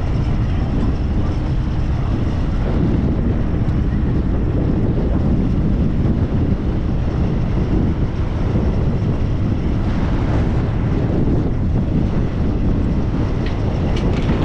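Strong gale-force wind buffeting the camera microphone despite its wind guard, a loud steady low rumble.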